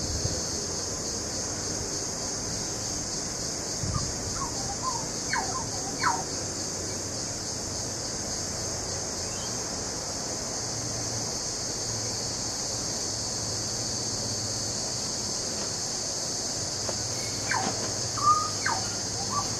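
Birds calling in short chirps and squawks, in a cluster about four to six seconds in and again near the end, over a steady high-pitched hiss.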